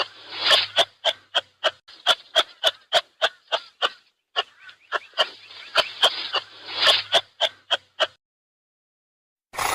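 An animal calling in a rapid series of short, sharp notes, about four or five a second, that stops abruptly a couple of seconds before the end; a brief separate burst comes near the end.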